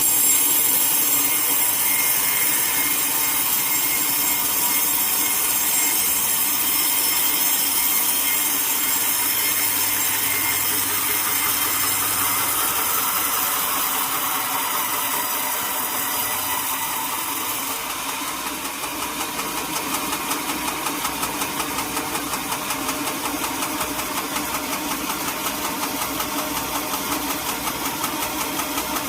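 Engine-driven sawmill cutting a teak log: a steady high hiss of the blade in the wood for about eighteen seconds, then the cut ends and the engine runs on with an even pulsing beat.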